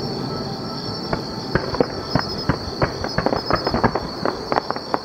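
Fireworks going off in the distance: a rapid, irregular string of sharp pops and bangs over a steady low rumble. The pops start about a second in and come thicker toward the end.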